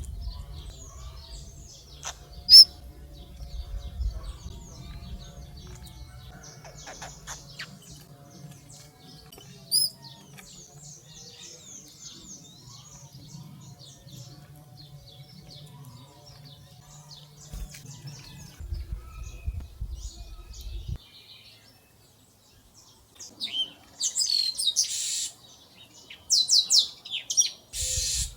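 Small wild birds chirping and calling around a feeder, many short high chirps with a couple of sharp, loud calls and a busier, louder burst of calls near the end. A low steady rumble sits under the first two-thirds.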